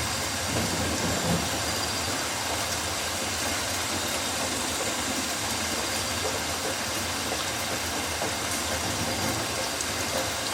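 Steady rain falling on rainforest leaves, an even wash of noise without breaks.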